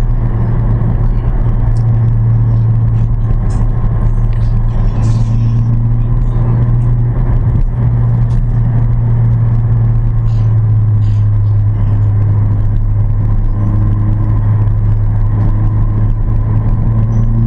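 Car engine running at a steady cruise, a loud, constant low drone that edges slightly up in pitch near the end.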